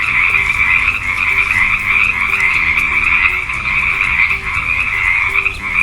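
Frogs calling in a continuous chorus, a dense steady din with a brief dip about five and a half seconds in.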